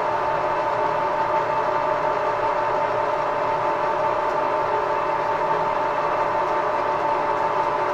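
Edgwick metal lathe running steadily with an even, unchanging whine while turning down a nylon part.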